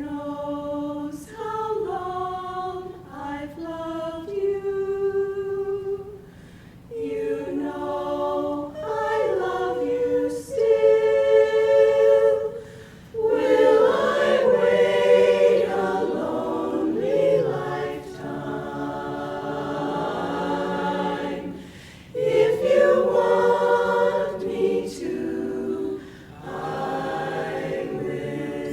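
A cappella chorus singing, several voices together in sustained chords, in phrases broken by short breaths.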